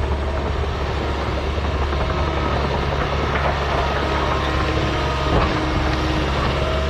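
Diesel engine of heavy earthmoving equipment running steadily, with faint squeaks over it and a brief knock about five seconds in.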